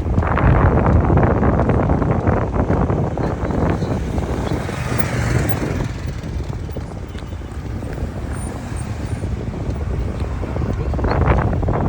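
Storm wind rushing and buffeting the microphone, a loud, gusty rumble that eases somewhat around the middle and picks up again near the end.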